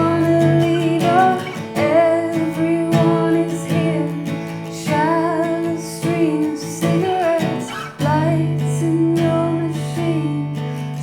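Live performance of a self-written song: a sung melody over a strummed acoustic guitar.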